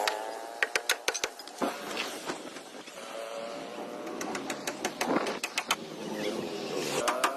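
Runs of sharp clicks or taps, reaching about four a second, over the steady hum of a vehicle engine whose pitch rises and falls.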